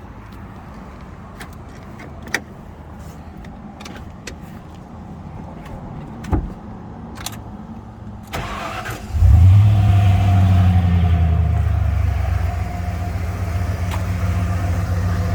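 Car engine being started: a few sharp clicks, then a brief burst of starter cranking about eight seconds in, after which the engine catches with a short flare of revs and settles into a steady idle.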